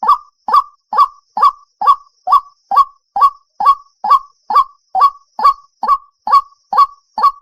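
Recorded call of a white-breasted waterhen (ruak-ruak) played on a loop as a lure: short, loud, harsh notes centred near 1 kHz, repeating at an even beat of about two and a half a second.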